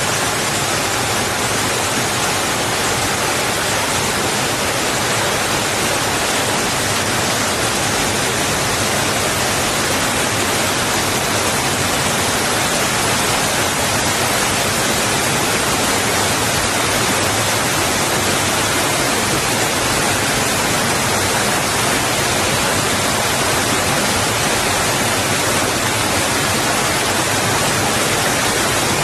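Water rushing against rocks, a steady, unbroken hiss with no individual splashes standing out.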